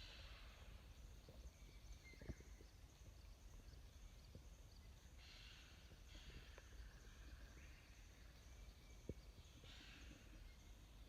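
Near silence: faint outdoor river ambience with a soft hiss and a few faint ticks.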